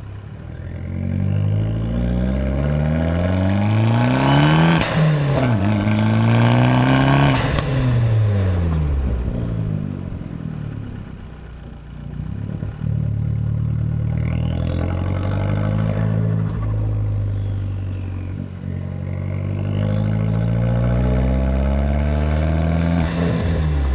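Fiat 500 Abarth's turbocharged 1.4-litre four-cylinder engine revving up under power, then dropping back, twice. Two loud hissing bursts come about five and seven seconds in as the revs peak and fall: the turbo's blow-off valve venting on lift-off. A shorter hiss comes near the end.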